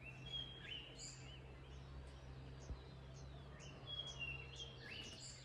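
Black-backed grosbeak singing two short warbled phrases with quick rising and falling notes, one at the start and another about four seconds in. Thin high chips repeat about twice a second over a steady low hum.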